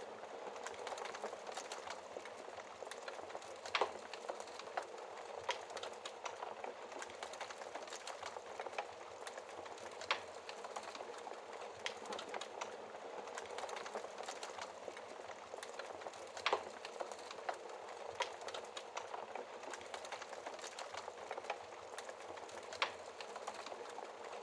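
Wood fire crackling in a fireplace: a steady hiss of burning with irregular sharp pops and snaps, the loudest about 4, 10, 16 and 23 seconds in.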